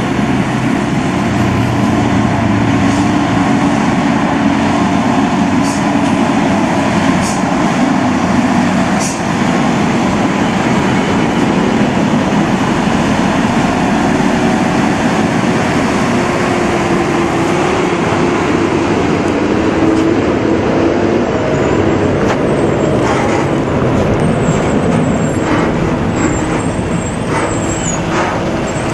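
Heavy truck engine running steadily amid road noise, with a few brief high-pitched squeals or hisses.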